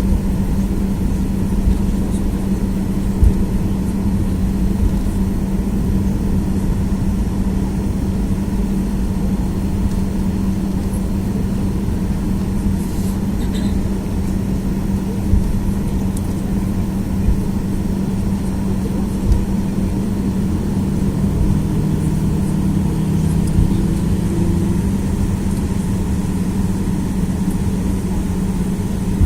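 Cabin noise of a Boeing 737-800 taxiing: its CFM56 engines' steady hum at low thrust over a low rumble, with a few short knocks. About 20 seconds in, a second, lower tone joins the hum.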